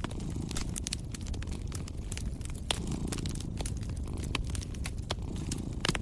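Wood fire crackling, with many sharp pops and snaps scattered irregularly over a steady low rumble; the loudest pops come a little under three seconds in and near the end.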